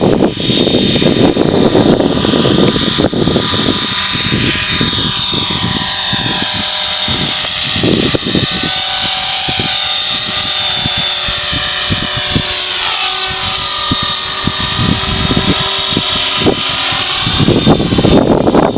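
Blue Ray 450 RC helicopter's motor and rotor whine, its pitch sliding up and down as it is flown and corrected in strong gusts. Heavy wind buffeting on the microphone covers it in the first few seconds and again near the end.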